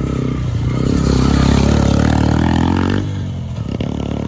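Dirt bike engine running at a steady low speed, then quieter about three seconds in.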